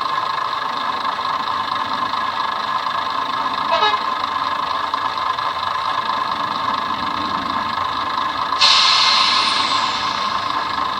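Dapol Class 121 bubble car model running with a Hornby TXS sound decoder, its recorded diesel railcar engine sound playing steadily through the small onboard speaker. A sudden hiss starts about two-thirds of the way in and fades slowly.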